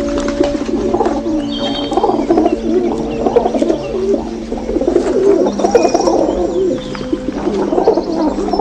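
Birds calling continuously, many low warbling calls overlapping, with a few faint higher chirps.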